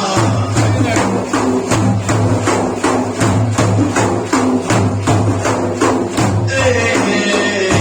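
Frame drums (daf) beating a fast, even rhythm of about three to four strokes a second, with a steady low tone under it. About six and a half seconds in the beat thins and held tones come forward.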